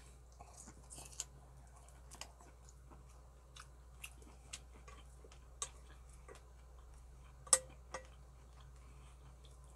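Close mouth sounds of chewing braised pork ribs, with short clicks scattered through. About seven and a half seconds in comes a sharper clack with a brief ring, like wooden chopsticks striking the stainless steel pot.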